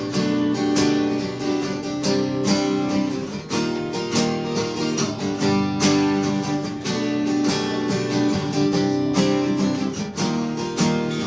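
Acoustic guitar strumming chords steadily in rhythm: the instrumental intro of a song, before the vocal comes in.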